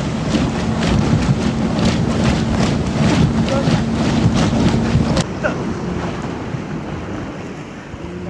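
Motorboat engine running steadily, with wind buffeting the microphone and repeated water slaps and spray. About five seconds in, the engine note and the slapping drop away, leaving wind and water.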